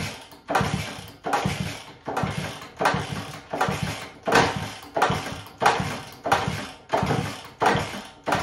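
1964 Honda 50 Super Cub's small single-cylinder engine being kicked over again and again, about one and a half kicks a second, each kick a sudden burst that fades out. It turns over but does not start.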